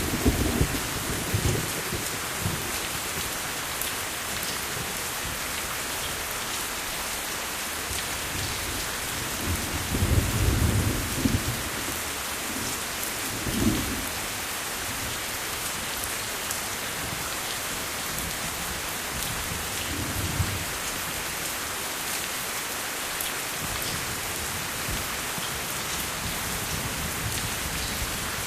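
Steady rain falling, with low rolls of thunder: one at the very start, the longest about a third of the way in, a short one soon after, and a fainter one past the two-thirds mark.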